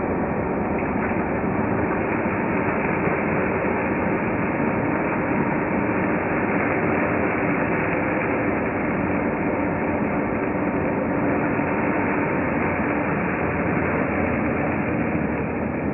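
1993 Hoover Turbopower 2 U2464 upright vacuum cleaner running steadily, with a constant motor hum and rushing air.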